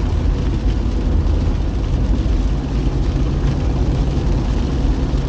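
A car driving on a rain-wet road: steady low engine and tyre rumble with an even hiss.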